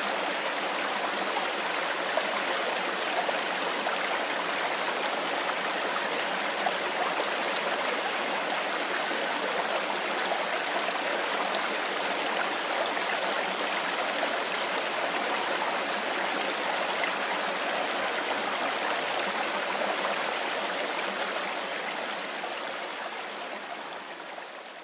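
Mountain river flowing steadily, a continuous even rush of water; it fades out over the last few seconds.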